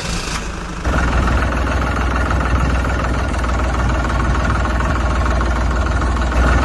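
Engine running steadily at idle with a deep hum, getting louder about a second in.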